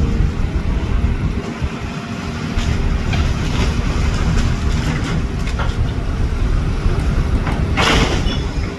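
Traffic on a busy street: vehicle engines running and passing close by, with a short loud hiss about eight seconds in.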